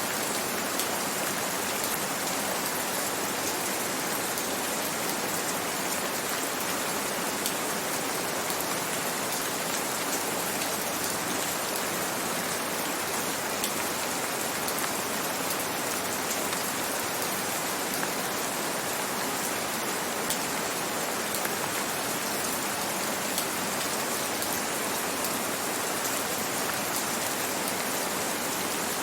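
Gentle rain falling steadily: an even hiss with scattered faint drop ticks.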